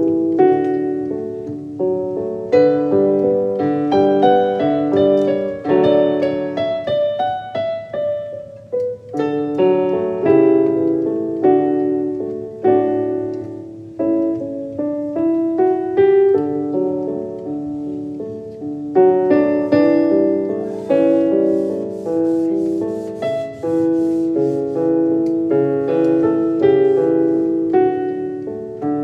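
Background piano music: a gentle melody of struck notes that ring and fade, played continuously.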